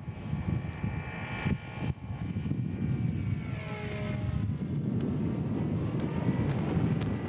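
Nine-cylinder Seidel model radial engine of a quarter-scale Yak 11 running steadily, tuned a little rich.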